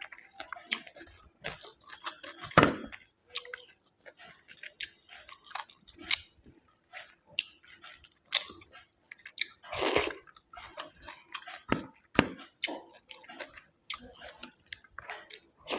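Close-miked chewing: irregular wet mouth clicks and smacks, with a few louder crunchy bites, one about two and a half seconds in and one about ten seconds in.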